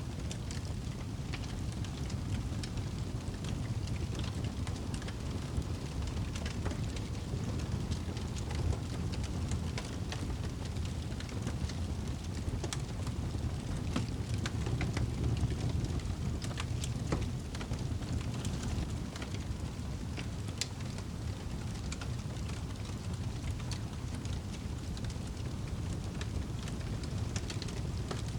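Campfire crackling, with scattered sharp snaps and pops over a steady low rumble.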